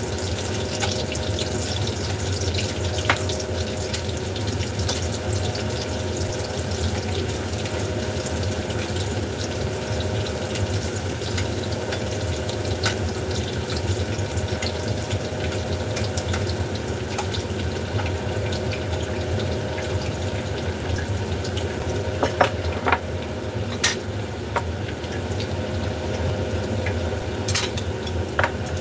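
Food sizzling in a wok over a gas burner, under the steady hum of the range-hood extractor fans. A few sharp clicks of chopsticks against the wok and bowl come through, several close together near the end.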